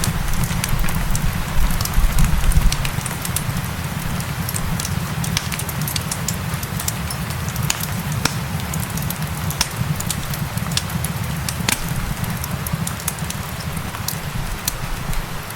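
Wood fire crackling, with frequent sharp pops and snaps over the low rumble of the flames, mixed with the steady hiss of rain.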